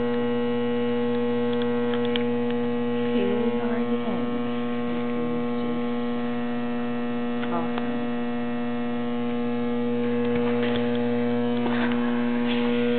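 A loud, steady electrical mains hum with a stack of even overtones, unchanging throughout, with faint voices in the background now and then.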